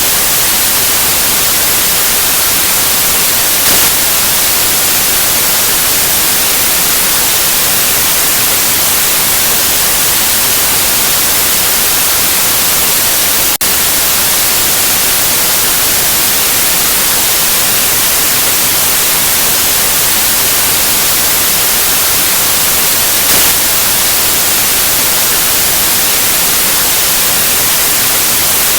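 Steady white noise: an even hiss spread across all pitches, strongest in the treble, with a momentary dip about halfway through.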